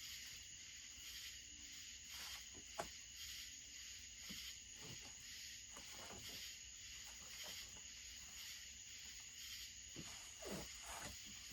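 A steady, faint chorus of insects chirping in high-pitched pulses about twice a second, with a few faint clicks and taps from small parts being handled, one sharper click about three seconds in.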